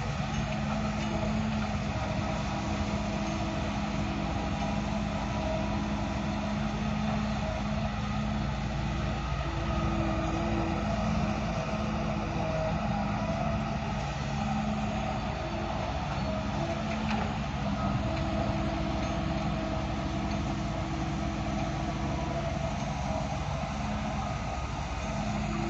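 Heavy machinery engine running steadily, a continuous hum that shifts slightly in pitch now and then.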